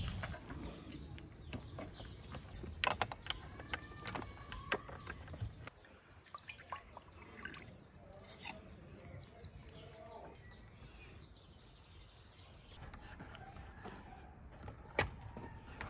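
A small bird chirping, a short rising chirp repeated about once a second through most of the second half. Light knocks and clatters come in the first few seconds.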